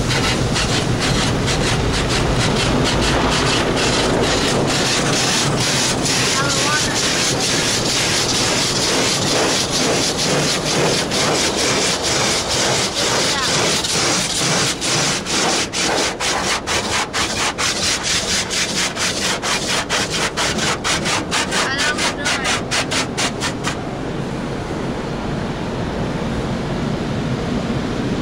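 Automatic car wash rotating brushes scrubbing the car, a loud steady wash of spray and brush noise. Partway through, the brush strips start slapping the body in a regular beat that gets faster, then stop near the end.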